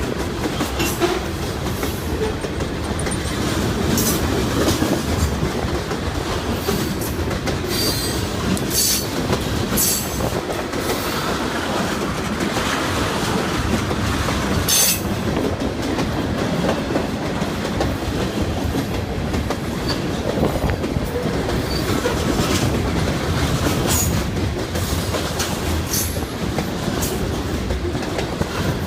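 Freight train cars rolling past on jointed rail, a steady rumble with wheels clicking over the rail joints and some wheel squeal.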